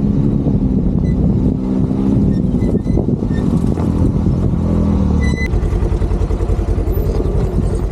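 A motor vehicle's engine running, with a sharp click about five seconds in, after which it settles into an even, fast pulsing idle.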